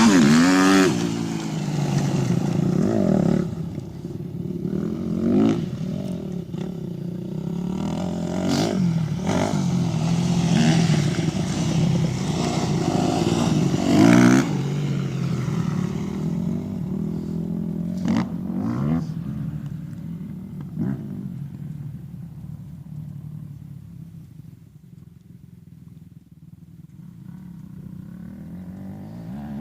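Off-road motorcycle engines revving up and down, rising sharply in pitch again and again. The sound dies away about three-quarters of the way through and picks up again near the end.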